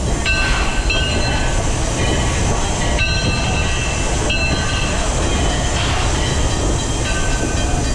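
Steam train rolling along the track with a steady low rumble, with brief high-pitched squeals coming and going every second or so.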